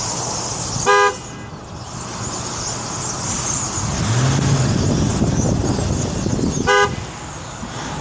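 Car horn tooted twice, each a short blast, about six seconds apart. Between the toots a vehicle engine rumbles, louder in the middle.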